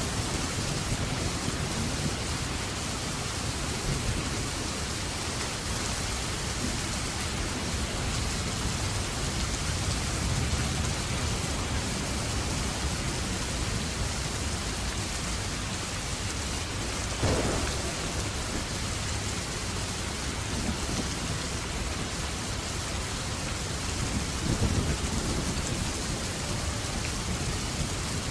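Steady heavy rain falling, with low rolls of thunder, a sudden louder crack of thunder about 17 seconds in, and another rumble near 25 seconds.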